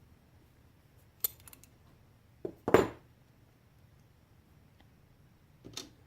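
Metal parts of an old brass valve clinking and knocking as it is taken apart by hand: a few separate clinks, the loudest pair near the middle and one more near the end.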